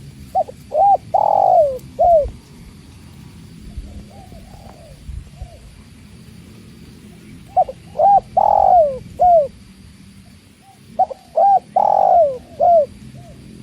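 Spotted dove (tekukur) singing its cooing song three times, each phrase a few short coos, then one long falling coo and a final short coo. Fainter coos sound between the phrases.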